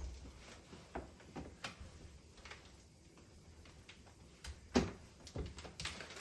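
A few scattered light knocks and clicks, like household objects being handled or set down. The loudest is a sharp knock near the end.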